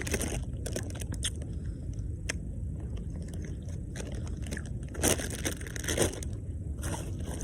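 A person chewing grapes, with short wet, crunchy bites coming in a few bursts over a steady low rumble.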